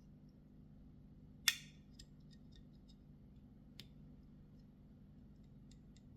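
Black Snow & Lee Lerman Mini Bowie flipper knife clicking as it is handled. One sharp metallic snap with a short ring about a second and a half in, a few light ticks, then a smaller click near four seconds and faint ticks near the end.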